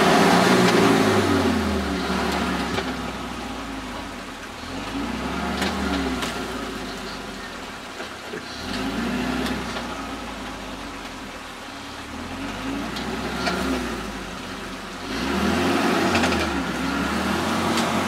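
Suzuki Vitara 4x4's engine revving up and easing off again and again, straining under load as the vehicle pulls on a tree.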